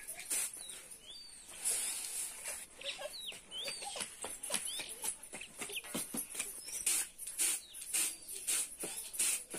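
Birds calling: short chirps and clucks, likely village fowl, with scattered clicks.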